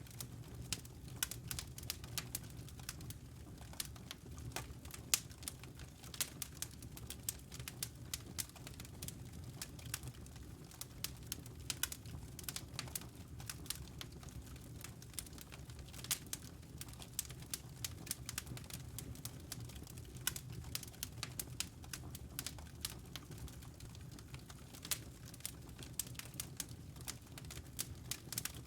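Wood fire crackling in a fireplace: many small irregular pops and snaps, over a steady low rumble.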